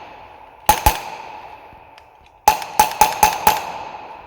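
Polarstar Kythera HPA engine in an HK416 airsoft replica firing with the BBs used up: a quick pair of sharp pneumatic shots, then a rapid string of five about two and a half seconds in.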